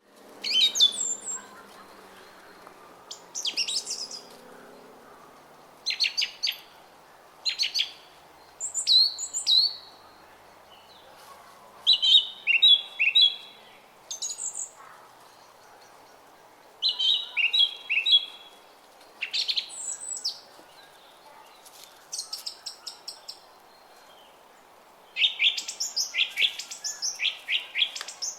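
Small songbirds singing short, quick chirping and trilling phrases every second or two, over the faint steady rush of a brook.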